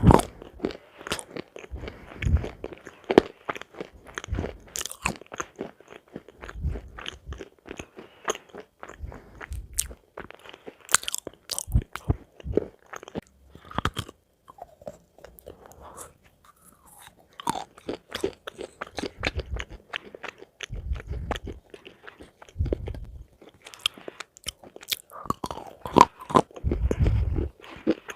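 A person biting and chewing crunchy food close to the microphone: irregular crisp crunches and clicks over dull low thuds of chewing, with a brief lull about halfway through.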